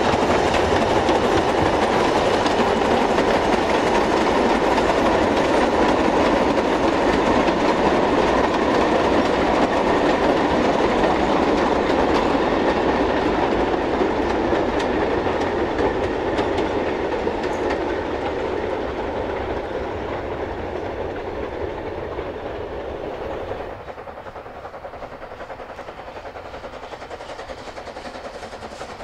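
Narrow-gauge train rattling past, its wheels and wagons clattering steadily over the rails. It fades away in the second half and drops suddenly a few seconds before the end.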